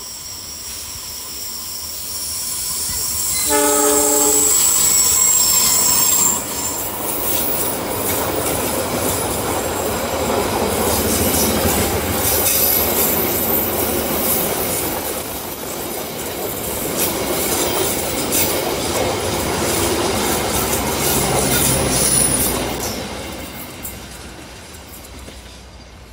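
Indonesian diesel-hauled passenger train approaching and passing close by. The locomotive's horn sounds once, about three seconds long, a few seconds in. The stainless-steel coaches then rumble past with wheels clacking over rail joints and a thin high wheel squeal, fading as the train moves away near the end.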